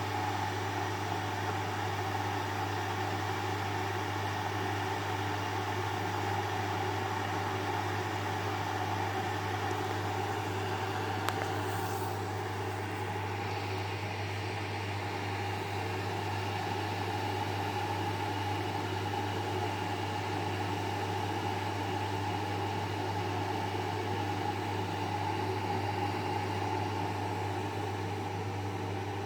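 Electric coffee pot (electric cezve) heating, giving off a steady low hum with a hiss over it. A single click sounds a little before midway.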